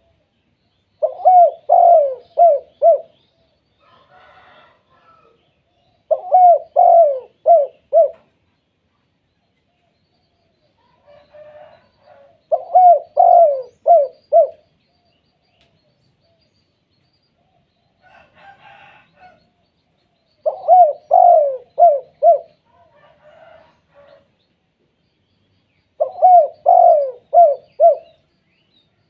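Spotted dove (tekukur) cooing: five phrases of four or five quick coos, repeated about every five to six seconds, with fainter sounds between the phrases.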